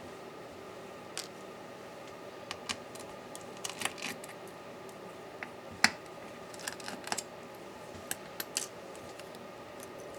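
Scattered small clicks and taps of tools and small parts being handled while a laptop is taken apart, with one sharper click about six seconds in, over a faint steady hum.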